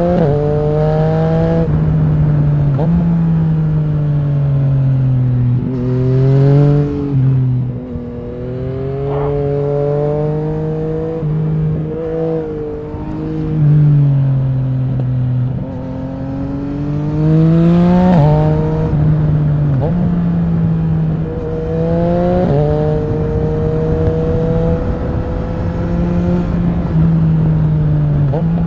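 Yamaha MT-09 SP's inline three-cylinder engine running through an Akrapovic racing exhaust. The note climbs as the throttle opens and drops back when it closes, again and again, under a haze of wind noise.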